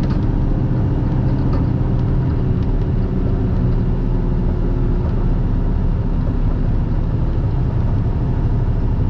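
Semi truck's diesel engine running steadily as it pulls an empty trailer up a long highway grade, heard from inside the cab, with a steady low engine hum under road and tyre noise.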